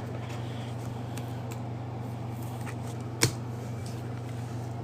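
Faint handling of trading cards and card packs, with a few light clicks and one sharper tap about three seconds in, over a steady low hum.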